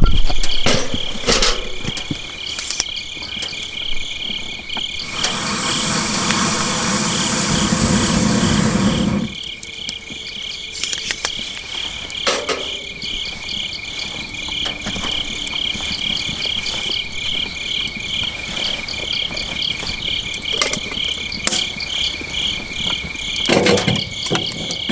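Crickets chirping steadily in even pulses, with scattered light clicks and knocks close by. About five seconds in, a rushing noise lasts roughly four seconds, then stops abruptly.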